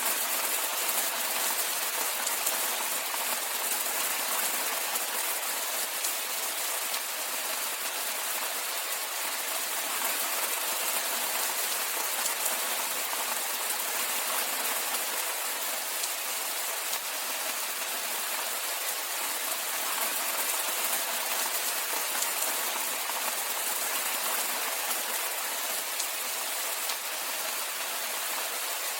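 Steady rainfall, an even hiss of many fine drops pattering on surfaces, with no let-up.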